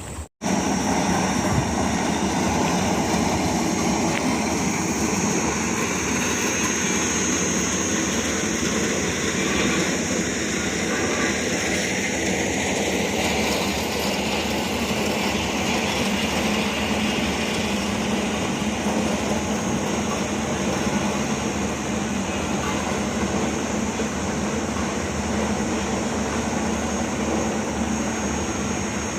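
A heavy vehicle running steadily, its engine and running noise holding level throughout. The sound starts abruptly just after a brief silent gap at the very beginning.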